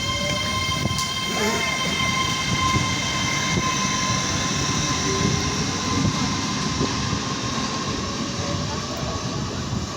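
GWR Class 800 train pulling out of the station: a steady whine of the traction equipment over the low rumble of wheels on rail, easing slightly towards the end.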